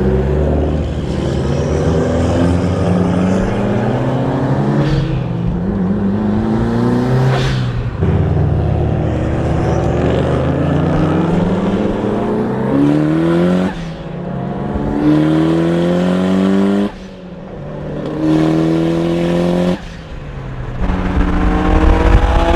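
Car engine accelerating hard through the gears: its pitch climbs steadily, then drops abruptly at each upshift or lift-off, several times over, with a last pull building near the end.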